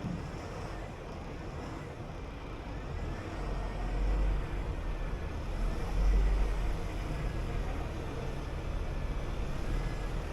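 City bus driving: a steady deep engine rumble with road noise, swelling louder twice around the middle.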